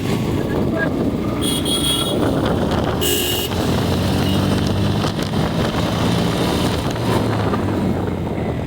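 Motorcycle ride in road traffic: steady engine and wind rush on the microphone, with two short horn honks about one and a half and three seconds in.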